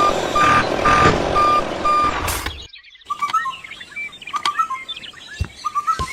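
Reversing alarm beeping steadily, about two beeps a second, over vehicle engine noise. It cuts off suddenly a little over two seconds in. After a short silence, high chirping calls follow.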